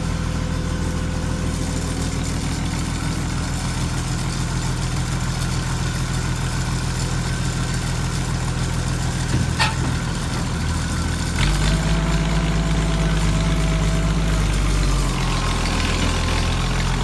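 Forklift engine running steadily, then revving up louder about eleven seconds in while it handles the car, with a sharp click a little before that.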